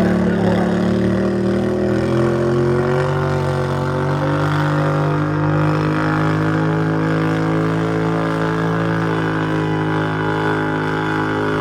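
Garden tractor engine running hard under load while pulling a weight sled, its pitch sagging over the first few seconds and then holding steady.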